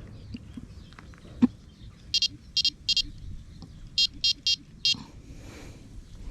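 Carp bite alarm giving short high-pitched bleeps, three in quick succession and then four more, as a fish knocks the line: a small indication that the angler takes for probably a bream. A single sharp tap comes just before the first bleeps.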